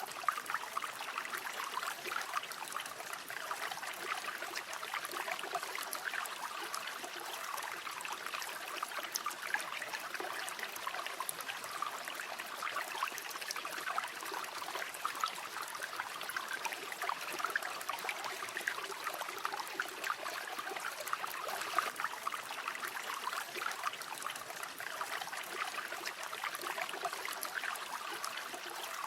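River water flowing, a steady rushing with small irregular splashes and trickles over rocks.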